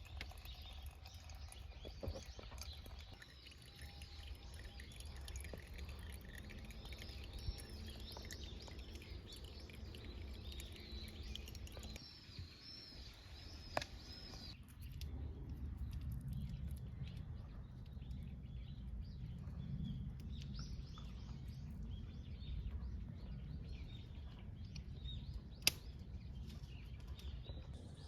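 Small birds chirping in quick repeated calls over a low steady background rumble. The chirping is fainter after an abrupt change about halfway, and there are two sharp clicks, one near the middle and one near the end.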